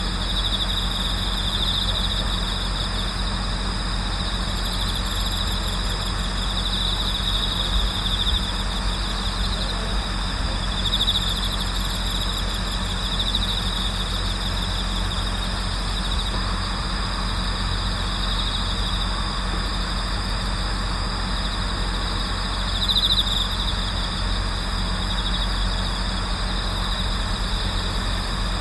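Night chorus of autumn crickets, including bell crickets, trilling steadily at a high pitch, with louder pulsed phrases every few seconds. A steady low hum runs underneath.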